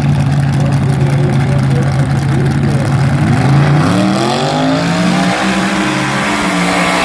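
Front-engine dragster engine running at a steady low idle, then revving up about three and a half seconds in, its pitch climbing and stepping higher and holding high.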